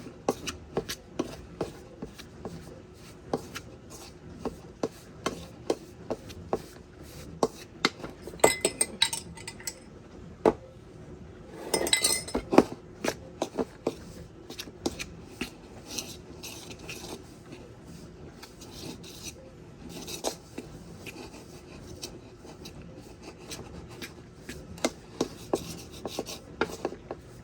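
A utensil stirring and scraping pie crust dough in a bowl, with irregular clicks and taps against the bowl. A few louder, ringing clinks come around the middle.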